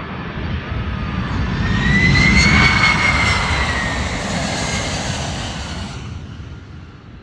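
Jet airliner passing low overhead on its landing approach: engine rumble and a high whine swell to a peak about two and a half seconds in, then fade away.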